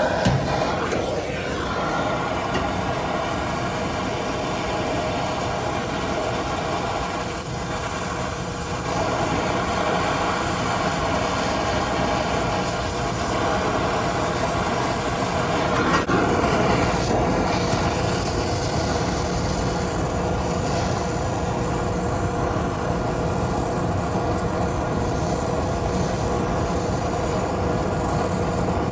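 Steady machine hum with several steady tones, mixed with wind on the microphone.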